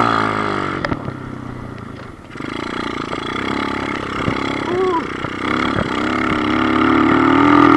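Kawasaki KLX110 pit bike's small single-cylinder four-stroke engine revving while ridden, its pitch rising and falling with the throttle. It eases off about two seconds in, then builds steadily to its highest and loudest point at the very end before the throttle is cut. The rider thinks it has a big bore kit.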